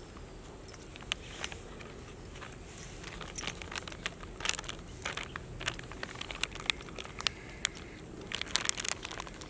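Rice-flour chekkalu dough being mixed by hand in a bowl: irregular light clicks, clinks and crunchy rustling, busiest in the middle and near the end.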